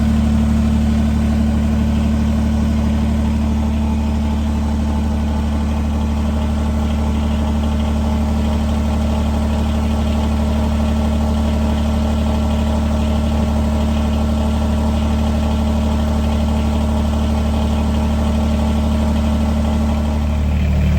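A vehicle engine idling steadily, an even low drone that holds the same pitch throughout.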